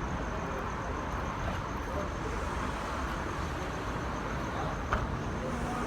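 Steady rumble of traffic noise, with a single short click or knock about five seconds in.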